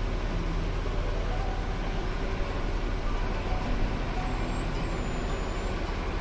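Farm tractor engine running steadily in the field, with a faint high whistle briefly about four seconds in.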